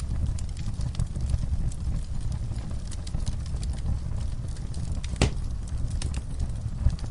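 Wood fire crackling: scattered sharp snaps and ticks over a steady low rumble, with one louder pop about five seconds in.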